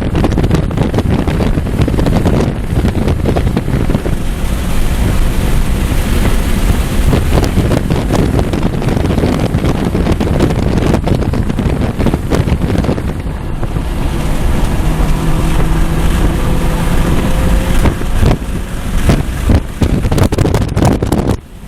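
Hyundai Elantra N being driven hard at speed: heavy wind buffeting on the microphone over the engine's rumble, with the engine pitch faintly rising through a gear about two-thirds of the way through.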